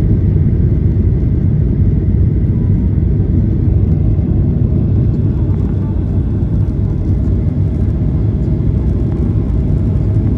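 Cabin noise inside a Boeing 737-800 airliner: the steady low rumble of its CFM56 jet engines and airflow, with no thumps or changes.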